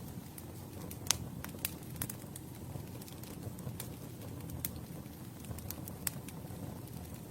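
Campfire burning: a steady low rumble of flames with irregular sharp crackles and pops, the loudest snap about a second in.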